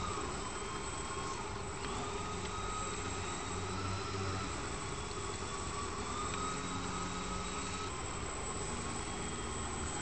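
Small electric motor and propeller of an indoor 3D aerobatic RC airplane running, a steady thin whine whose pitch drifts gently up and down with the throttle.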